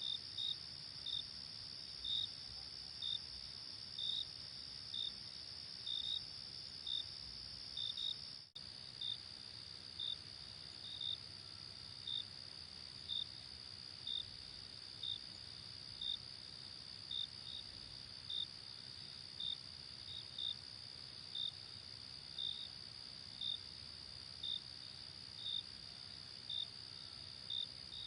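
Night insects: a steady high trill runs throughout, with a cricket chirping at an even pace of about once a second over it. The whole sound drops out for a split second about eight seconds in.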